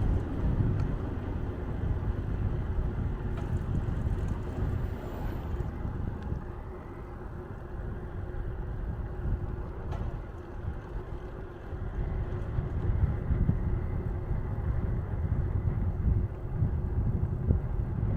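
Wind buffeting the microphone of a moving bicycle, a gusting rumble that rises and falls, with a faint steady hum underneath.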